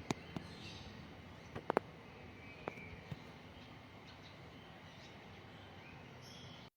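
Faint twittering chirps of swiftlets, with a few sharp clicks in the first three seconds.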